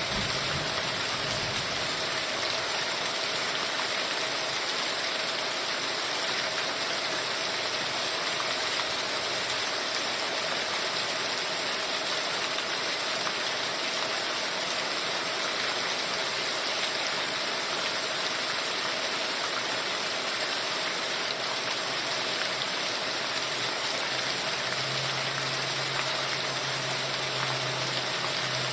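Heavy rain falling steadily, an even hiss with no breaks. A faint low hum comes in near the end.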